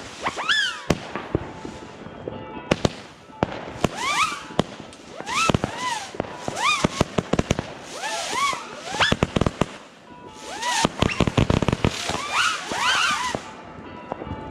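Firework battery (cake) firing volleys of whistling shots: each shot's whistle rises and then falls in pitch, mixed with sharp bangs and crackle, one volley every second or two.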